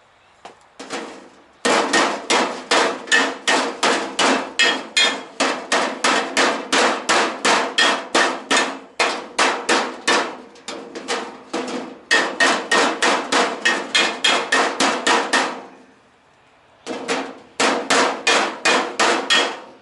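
Hammering: quick, even blows at about three a second, in three runs with short pauses between them, each strike ringing briefly with a clear tone.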